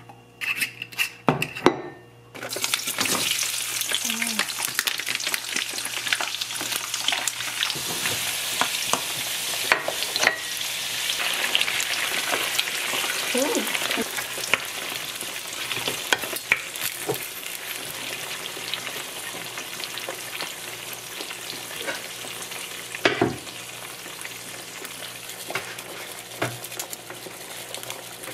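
Shrimp and garlic sizzling in hot olive oil in a frying pan, with a wooden spatula scraping and knocking against the pan as they are stirred. A few separate knocks come first, the sizzle starts a couple of seconds in, and there is one louder knock near the end.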